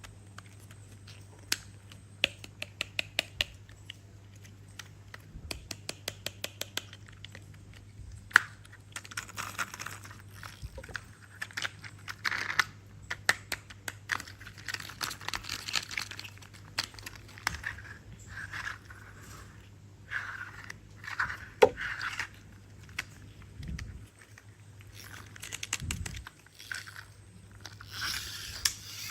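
Close handling noises from a plastic toy logging truck. Fast runs of small clicks in the first seven seconds give way to crinkling and rustling with scattered knocks.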